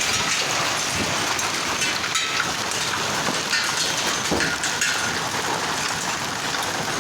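Heavy rain falling: a steady, even downpour with scattered sharper drop impacts.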